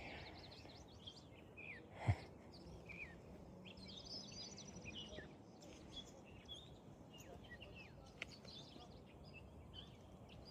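Several birds chirping and calling in short, scattered notes over a faint steady outdoor hiss, with a single sharp thump about two seconds in.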